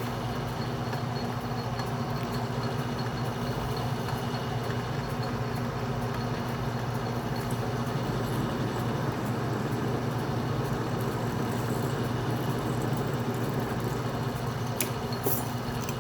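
Atlas metal lathe running steadily with a single-point tool taking a threading pass through 304L stainless steel: an even motor and gear hum with the noise of the cut. Two sharp clicks sound about a second before the end.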